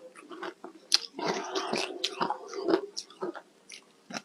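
Ice being bitten and chewed close to the microphone: irregular crunches and cracks, densest between about one and two seconds in and thinning out near the end.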